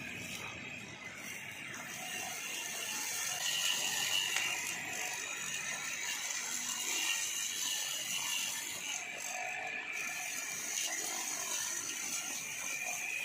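Old grass-cutting machine running with a steady, dense mechanical rattle.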